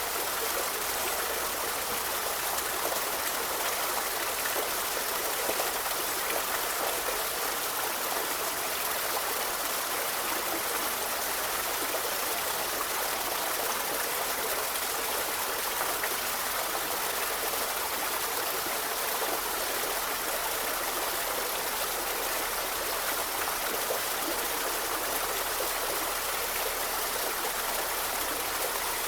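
A river running steadily over stones, a continuous even rush of flowing water.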